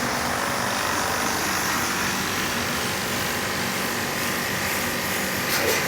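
Steady mechanical hum and whir of a running motor, with a couple of faint clicks near the end.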